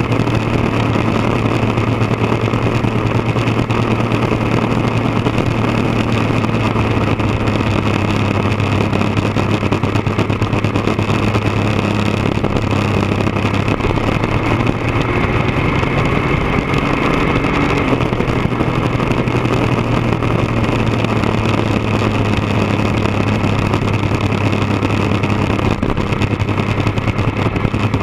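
1999 Triumph Daytona 955i's inline three-cylinder engine running steadily through a D&D aftermarket exhaust. The engine note rises slightly about two-thirds of the way through, then drops back.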